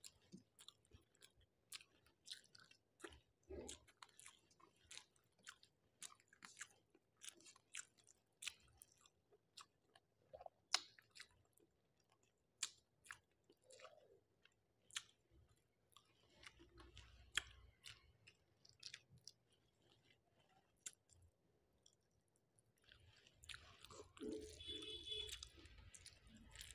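Close-miked chewing of a mouthful of rice and fish: soft, wet mouth clicks and smacks, faint and irregular. Near the end, a brief clink.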